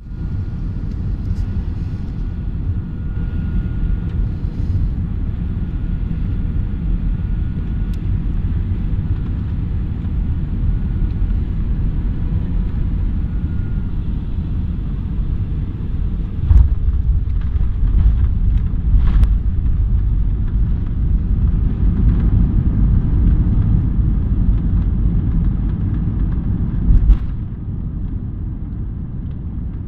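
Airliner cabin noise during landing: a steady low rumble, a sudden jolt about halfway through that fits the wheels touching down, then a louder rumble as the plane rolls out along the runway, easing after a knock a few seconds before the end.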